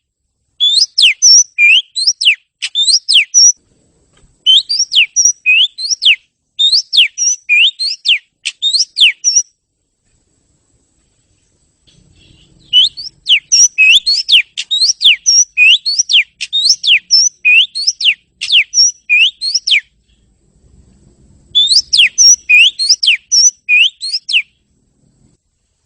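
Oriental magpie-robin singing: quick, sweeping whistled notes repeated rapidly in runs of a few seconds, broken by short pauses, with one longer run in the middle.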